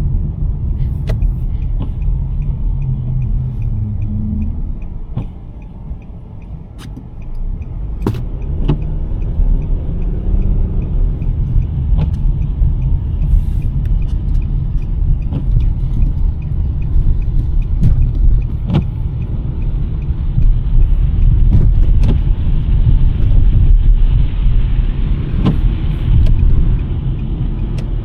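2023 Nissan Sentra driving on a snowy road: a steady low rumble of tyres and engine. It drops off for a couple of seconds about five seconds in, then builds again as the car picks up speed. Sharp knocks and clicks come at irregular intervals.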